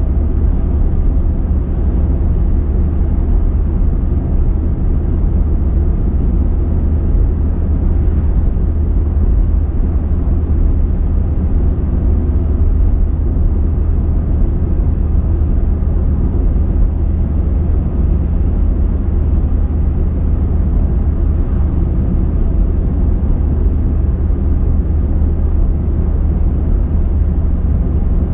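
A car driving along at a steady speed, with a continuous low rumble of tyres and engine on the road and no change in pace.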